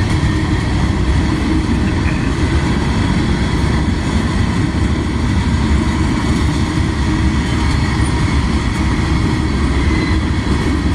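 Cars of a freight train rolling past at close range: a loud, steady rumble of steel wheels on rail.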